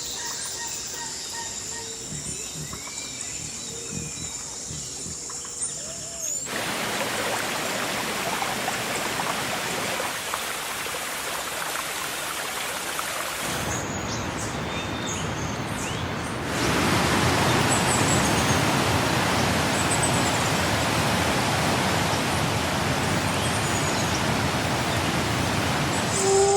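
Steady rushing hiss of rain or running water that starts suddenly about six seconds in and gets louder about ten seconds later. Before it, faint high chirps and a thin steady drone, like insects.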